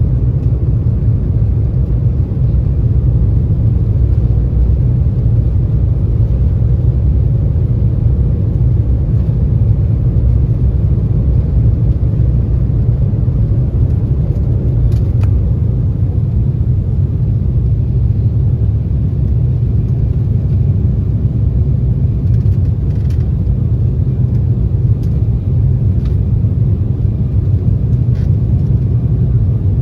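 Steady low rumble of a jet airliner heard from inside the passenger cabin: engine and airflow noise, with a few faint clicks.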